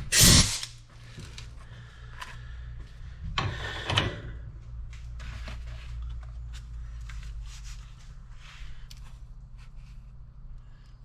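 Workshop handling noises: a sharp clatter right at the start and a second knock about four seconds in, then light scattered clicks over a steady low hum.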